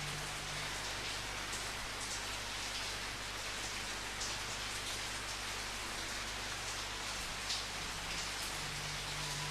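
Steady rain falling, with scattered louder drops splashing here and there.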